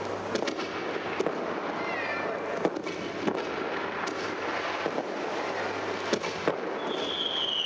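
Fireworks going off: a steady crackle with sharp bangs every second or so, and near the end a whistling firework starts, its pitch falling. The recording is an old vinyl transfer, with surface noise and a low hum under it.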